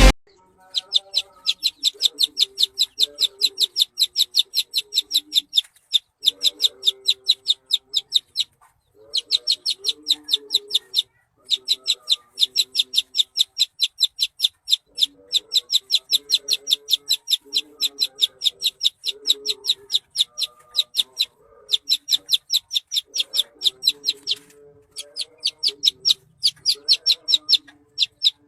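A caged oriental white-eye (pleci) singing canary-style 'tembakan': rapid runs of sharp, high repeated notes, about eight a second, in phrases of a few seconds broken by short pauses. A much fainter, lower clucking sound lies underneath.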